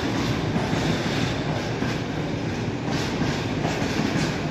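Tank wagons of a freight oil train rolling through the station: a steady rumble of steel wheels on rail, with a clickety-clack as wheels pass over rail joints.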